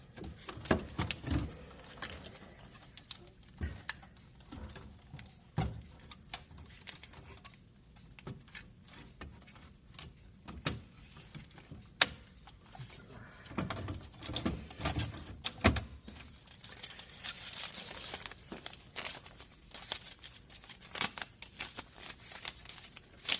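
Scattered clicks, knocks and rattles of hands working on a vending machine's bill acceptor and bill recycler, with the sharpest knocks about twelve and sixteen seconds in.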